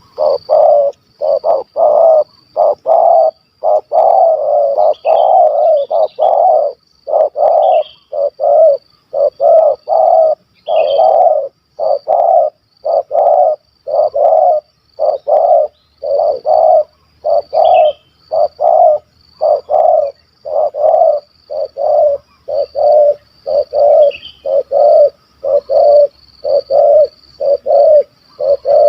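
Spotted dove (tekukur) cooing in a long run of short, loud coos, roughly one a second with brief pauses. A faint high insect trill runs underneath, and a few other birds chirp faintly.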